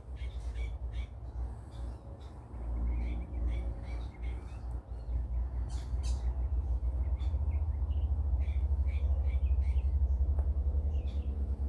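Birds chirping, many short high calls scattered throughout, over a low rumble of wind on the microphone that grows stronger in the second half.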